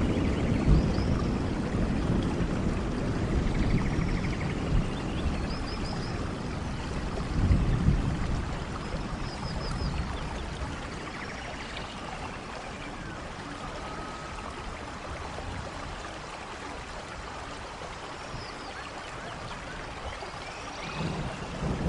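Steady rain with low rolling thunder. The rumble fades over the first half, swells briefly about seven seconds in, and builds again near the end. Short high chirps come now and then.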